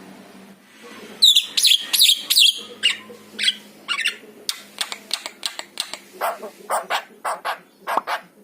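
Javan myna (jalak kebo) calling: after about a second of quiet, a quick, irregular string of short, sharp, harsh notes starts, the first few sliding down in pitch.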